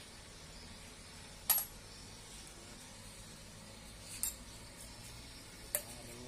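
Three sharp metallic clinks, a couple of seconds apart, over a faint low hum: metal parts or tools striking one another.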